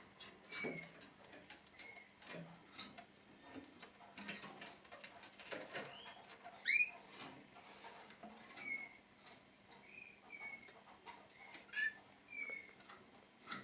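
Red melanin canaries giving short, falling call notes every second or so, with one louder rising chirp about halfway through. Light clicks and taps are scattered throughout.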